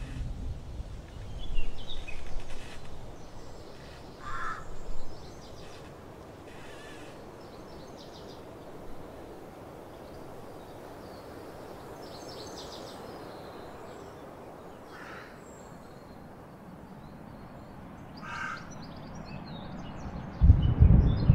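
A few short, harsh bird calls over a steady outdoor background hiss. A loud low rumble comes in near the end.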